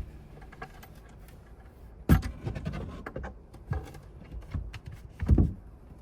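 Two sharp thumps about three seconds apart, with lighter clicks and knocks in between, as of things being handled or shut in a small space.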